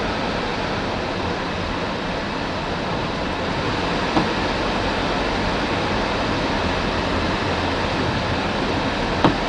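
Steady rushing noise of a vehicle travelling along a snow-covered road, with two brief knocks, one about four seconds in and one near the end.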